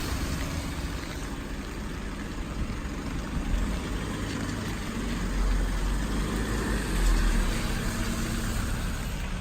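Rain falling steadily under a low rumble that swells about five and seven seconds in.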